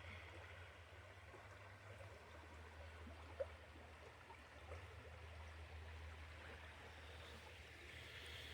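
Faint, steady running of a small stream, with a low rumble underneath and a single light tap about three and a half seconds in.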